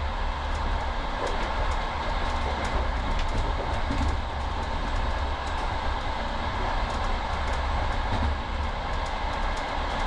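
Steady running noise of a moving passenger train heard from inside a sleeping-car compartment: a constant low rumble with light, scattered ticks.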